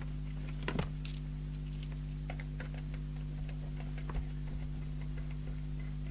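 Faint scattered metallic clicks and ticks from handling a coax aerial plug being connected to a CB radio, over a steady low electrical hum from the bench equipment.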